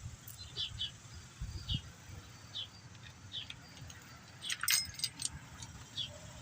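Saw chain links clicking and rattling against each other and the bar as the chain is fitted back onto an Echo CS 440 chainsaw's bar and sprocket, with a short burst of jangling about four and a half seconds in.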